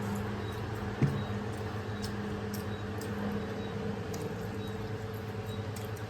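A steady low buzzing hum, with faint scattered ticks and one sharp tap about a second in.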